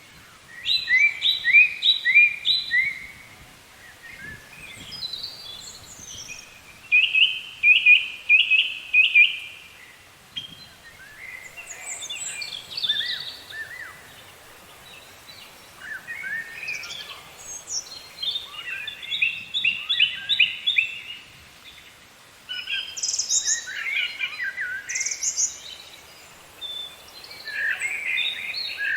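Songbirds singing outdoors: phrases of rapid, repeated chirping notes, one after another every few seconds, with quieter gaps of faint background hiss between them.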